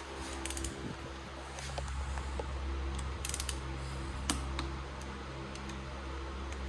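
Scattered sharp metallic clicks and clinks of hand tools being handled over a steady mechanical hum; a short rattling cluster of clicks comes about three seconds in.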